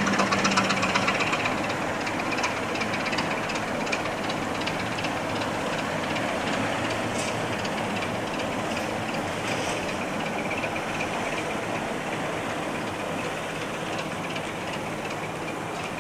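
A diesel-hauled train of Mk1 coaches moving away along the line. The locomotive's engine note fades out in the first second or two, leaving the coach wheels clicking over the rail joints as the train slowly recedes.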